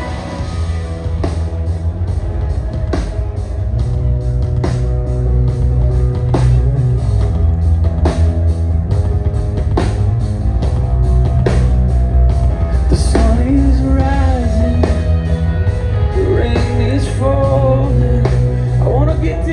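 Rock band playing live, heard from the audience: a steady drum beat, bass and guitars, with a voice singing over them from about two-thirds of the way through.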